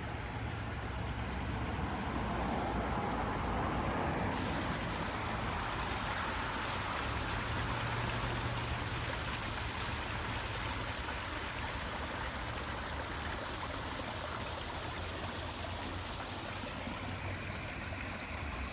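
Waterfall spilling into a pond: a steady rushing, splashing flow, a little louder a few seconds in, over a low steady hum.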